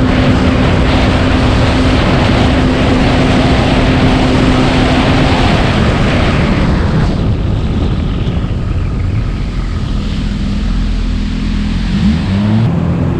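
Supercharged 2019 Yamaha FX SVHO jet ski engine running hard with loud water and wind rush. About seven seconds in the rush eases off, and near the end the engine note rises briefly, then settles to a steady note.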